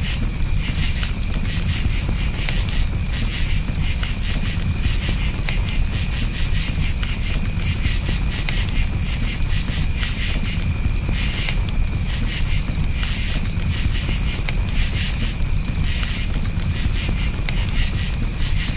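Crickets chirping steadily in a continuous pulsing chorus over a crackling campfire, with scattered sharp pops and a low steady rumble from the fire.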